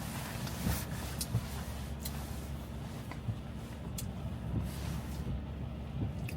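Cabin road noise of a Tesla electric car driving on a wet road: a steady low tyre rumble with a hiss of water spray. A few brief sharp ticks or swishes come at irregular moments.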